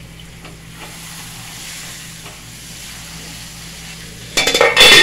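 Tortillas frying in hot oil in a pan, a steady sizzle. Near the end, a much louder crackling burst.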